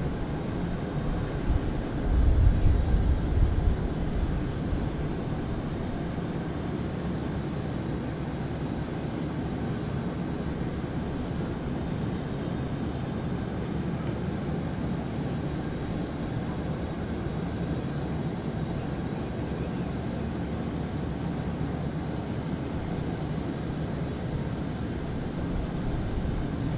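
Jet airliner engines running steadily on the apron, a constant whine-and-rush noise. A strong low rumble of wind buffeting the microphone comes about two to four seconds in.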